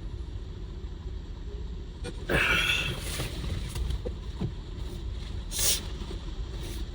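Steady low road and engine rumble inside a moving car's cabin, with a brief hissing noise about two seconds in and a shorter one near six seconds.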